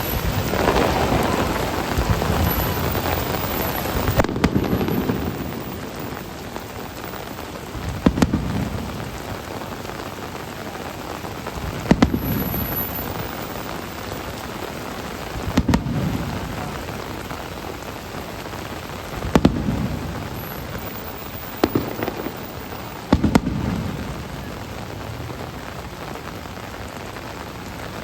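Fireworks shells bursting about every four seconds, each a sharp crack followed by a low rolling boom, seven in all with the last few coming closer together. Steady rain hisses underneath throughout.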